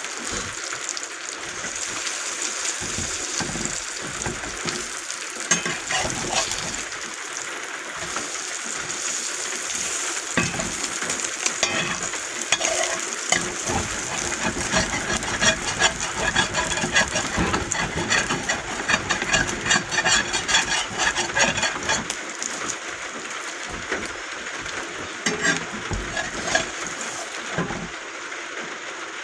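Bacon grease sizzling and crackling on a griddle over a camp stove, a steady hiss with dense pops that get busier through the middle.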